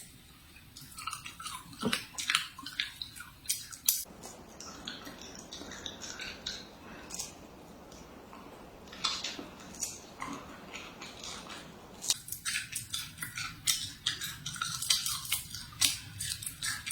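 Close-miked eating: crisp, juicy food being bitten and chewed, a quick run of wet crunching clicks that thins out in the middle and picks up again near the end.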